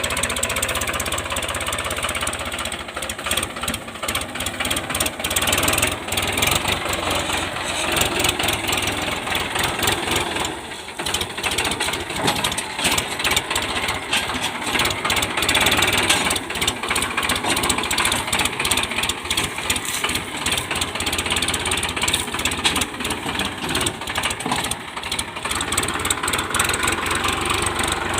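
Powertrac tractor's diesel engine running steadily, with a dense clatter throughout.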